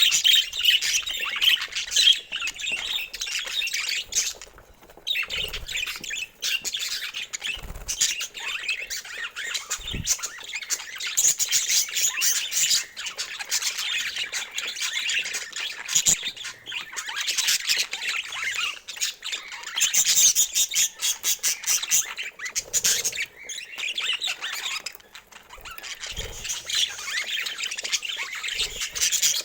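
Budgerigars chattering and warbling, a dense, continuous mix of high chirps and squawks with brief lulls about five seconds in and again near the end.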